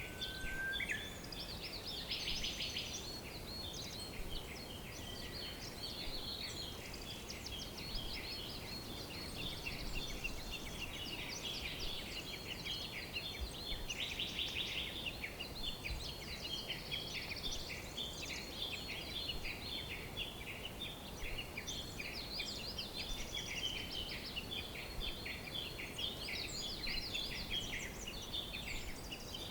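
Many birds chirping and singing at once: a dense, steady chorus of short high calls from several birds, over a faint even background hiss.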